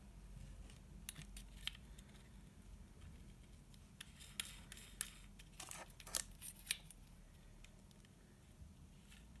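Light, scattered clicks and ticks of small metal parts being handled, bunched together about four to seven seconds in. The engine is not running.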